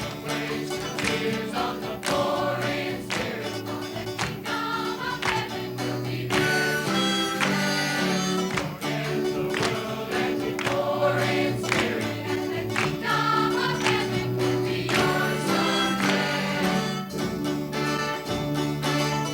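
Gospel choir singing a song with instrumental accompaniment and a steady beat.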